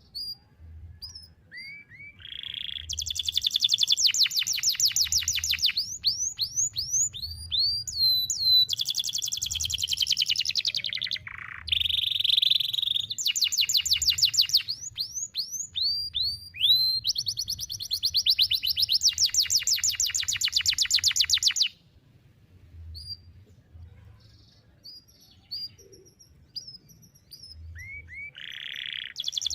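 Domestic canary singing: long runs of very rapid trills and quick downward-sweeping whistles, carried on for nearly twenty seconds with hardly a break. After that it falls to a few faint chirps, and a new trill starts near the end.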